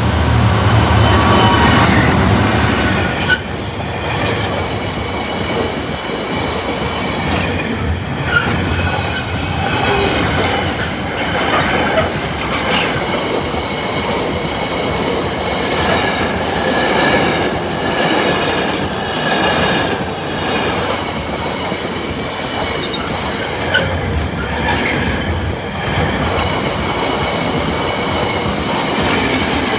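GB Railfreight Class 66 diesel locomotive, with its two-stroke V12 engine, passes close by at the start. It is followed by a long train of container wagons that rumble and clatter over the crossing, with high wheel squeal running through the whole pass.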